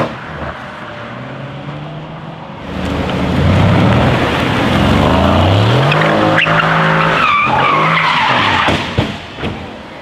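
A car engine revving up with rising pitch, then tyres squealing around seven seconds in, with a sharp knock near the end.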